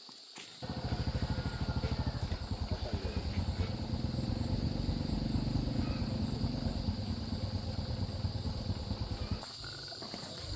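Small motorcycle engine starting suddenly about a second in, running with a fast, steady pulse, and cutting out near the end.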